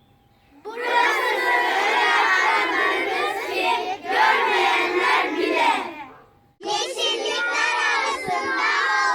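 A group of children's voices shouting words together in three long phrases, with brief pauses between them.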